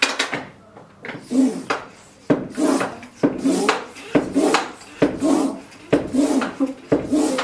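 A 300 bar (4500 psi) PCP hand pump being stroked by hand, about one stroke a second. Each stroke starts with a sharp knock and trails off in a rushing noise as the pump builds pressure in a test plug toward 3,000 psi.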